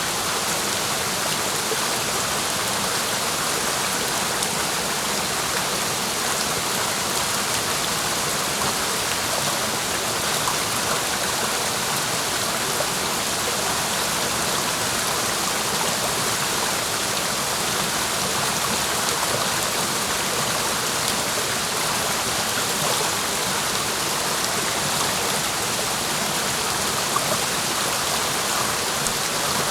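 Clear mountain stream flowing steadily, an even, unbroken sound of running water.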